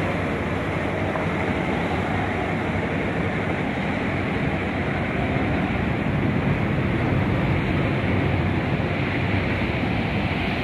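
Diesel train approaching along the track: a steady rumble of engine and wheels that grows a little louder about halfway through, with wind on the microphone.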